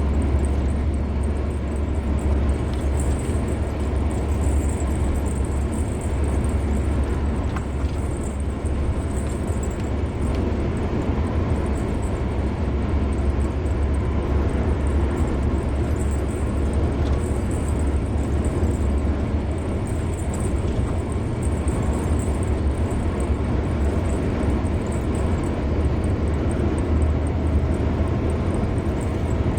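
A car driving steadily on the open road: even tyre and road noise over a low drone, holding the same level throughout.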